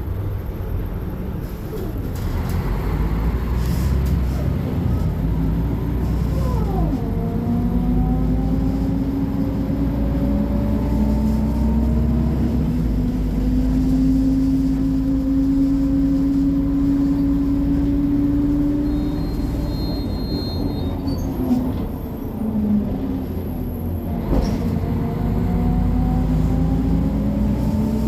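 Mercedes-Benz O500MA BlueTec 5 bus's diesel engine working through a ZF Ecomat 6HP-604C automatic gearbox under acceleration. The engine note climbs steadily in pitch, drops sharply at an upshift about a quarter of the way in, climbs again, and drops at a second upshift near the end.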